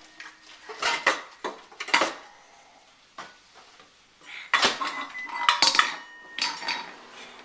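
Metal pots and pot lids knocked together and against a porcelain tile floor by a toddler: separate clanks about a second apart, then a busier clatter from about halfway, some lids ringing on briefly after a hit.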